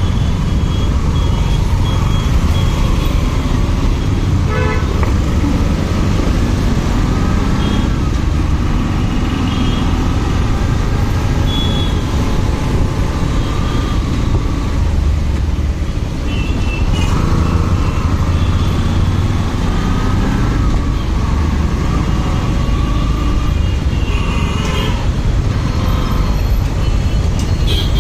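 Riding a motorcycle in traffic: a steady roar of wind, engine and road on the rider's microphone, with vehicle horns honking several times.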